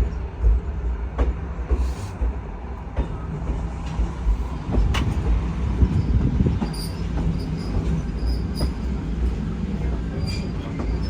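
A train running on rails: a steady low diesel engine drone, with scattered clicks and clanks of the wheels and cars over the track.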